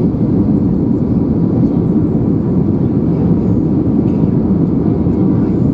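Steady low rumble inside the cabin of an Airbus A321 taxiing after landing: engines at idle and airflow, with no distinct events.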